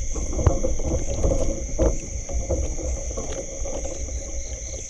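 Water sloshing and splashing with a few sharp knocks, over a steady high chorus of crickets and other insects.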